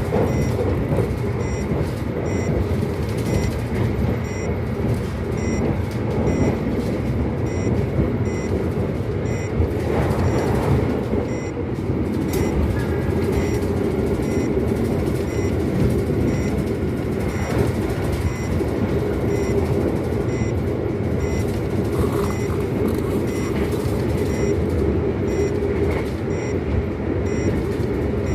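Argo Cheribon express train running at speed, a steady rumble of wheels on rails with no break. A faint high electronic beep repeats about twice a second over it.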